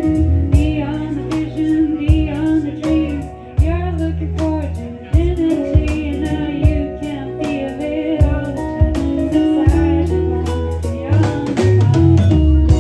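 Live band performing a song: a singer over guitar and a rhythm section.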